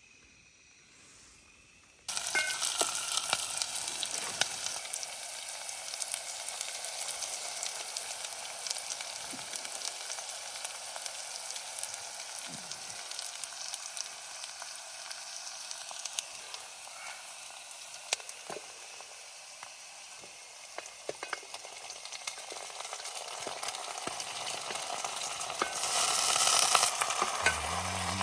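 Food frying in hot oil in a pan: a steady sizzle full of fine crackles. It starts suddenly about two seconds in and gets louder near the end.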